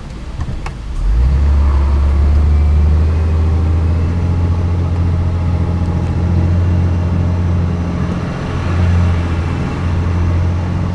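Scania R420 truck's six-cylinder diesel engine under load, getting louder about a second in as it pulls harder and then running steadily with a deep hum.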